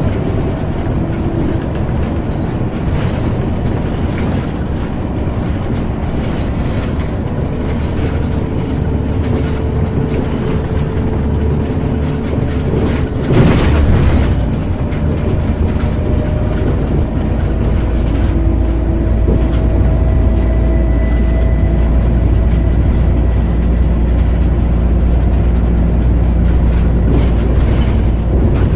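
Scania CN94UB OmniCity bus heard from inside while on the move: steady engine and road noise with faint whining tones. A sudden loud noise lasts about a second halfway through, then the deep engine drone grows louder and stays up.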